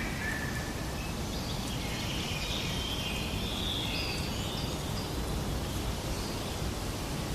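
Outdoor nature ambience: a steady rushing noise with a few short bird calls, clustered about two to four and a half seconds in.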